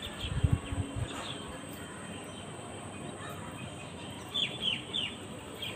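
A small bird chirping: three or four short, quick descending calls about four seconds in, over a steady background hiss. A few low bumps come in the first second.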